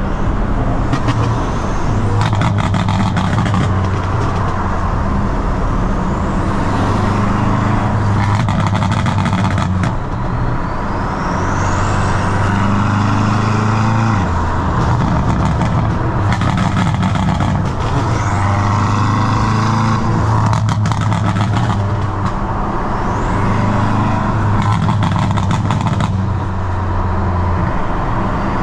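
BMW F90 M5's twin-turbo V8 driven hard, its note rising and dropping over and over. Between the pulls come clusters of sharp crackles from the pop-and-bang exhaust map.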